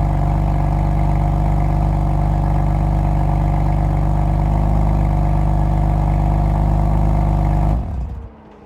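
2018 BMW M4's turbocharged 3.0-litre straight-six idling steadily, then stopping abruptly about eight seconds in.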